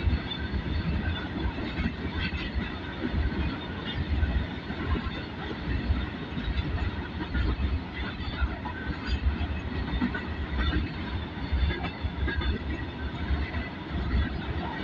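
Freight train of railway tank wagons rolling past close by: a steady rumble of steel wheels on the rails, with scattered short metallic clicks and squeaks.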